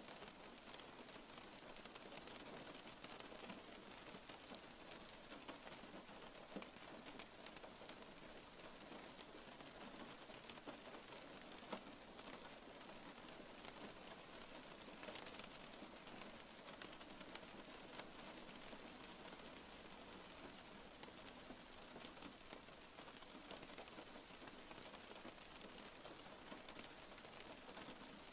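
Faint, steady rain falling, with scattered drop ticks.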